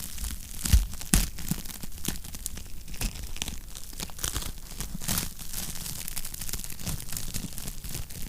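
Fire crackling in a fireplace: a dense run of small snaps and pops, with two sharper pops about a second in.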